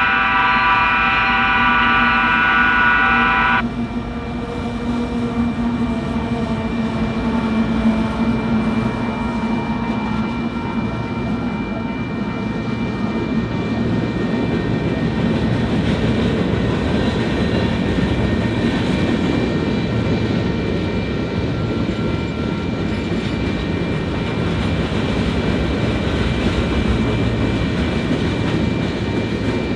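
Freight locomotive horn sounding a loud multi-note chord that cuts off about three and a half seconds in. A Union Pacific manifest freight train, six diesel locomotives leading, then rolls past with a steady heavy rumble and clatter of wheels on rail.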